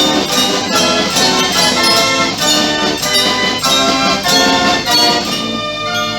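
Fairground organ music: brass-like pipe tones over a steady drum beat. The drums drop out about five and a half seconds in, leaving held organ chords.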